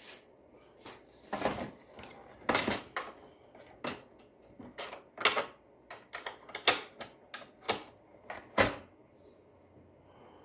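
Casing and parts of a broken vacuum cleaner being handled and opened up by hand: a run of irregular clicks and knocks, about fifteen of them, ending about a second before the end.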